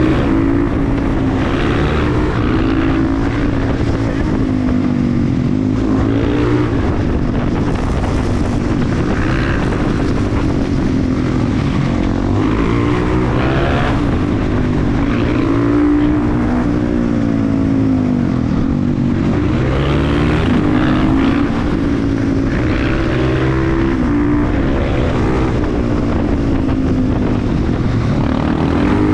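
KTM 350 EXC-F supermoto's single-cylinder four-stroke engine under way, its revs rising and falling again and again as the bike accelerates and slows.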